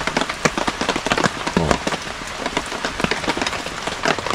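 Steady rain pattering on a tarp overhead: a dense, irregular run of small drop hits.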